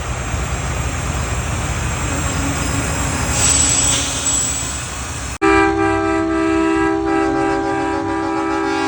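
Traffic and engine rumble from passing trucks, then, about halfway through, a long, loud blast of a truck's air horn sounding several notes at once, held steady.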